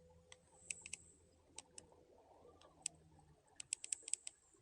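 Faint, irregular sharp clicks and ticks, about a dozen, bunched together near the end, over a faint low hum that stops about three seconds in.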